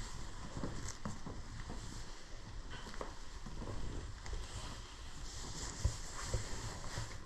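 Footsteps and handling noise from a person walking with a handheld camera: irregular low thumps and rustles over a steady hiss, with two sharper thumps near the end.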